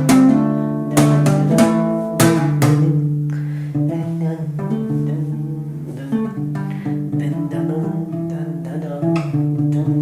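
Guitar music: strummed chords with plucked notes ringing on, an instrumental passage with no singing.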